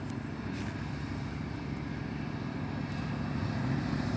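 Blizzard wind on the phone's microphone: a steady low rumble with a hiss over it.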